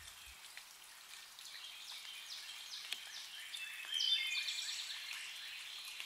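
Faint outdoor birdsong: a series of short, high, down-slurred notes repeated several times, then a quicker run of notes about four seconds in.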